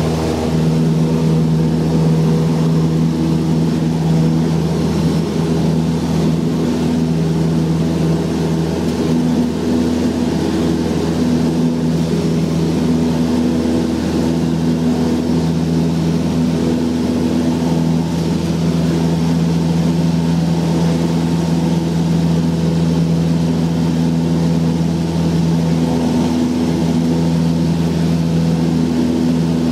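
Cessna 172's piston engine and propeller running at a steady drone, a constant low hum that holds its pitch throughout.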